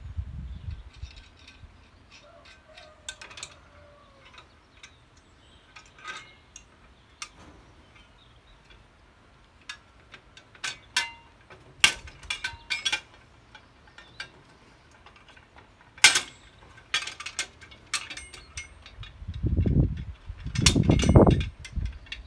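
Scattered metallic clinks and knocks of steel implement parts and tools being handled, some ringing briefly, with two louder low rumbling stretches near the end.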